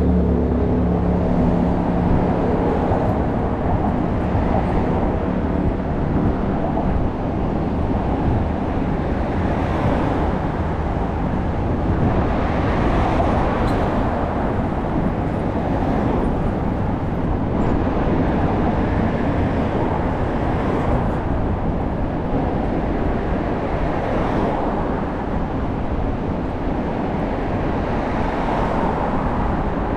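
Steady city traffic and road noise with a low rumble, recorded from a moving bicycle. It swells and eases gently.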